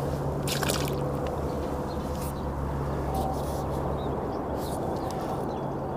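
Creek water running steadily over a low, constant hum, with a few faint clicks here and there.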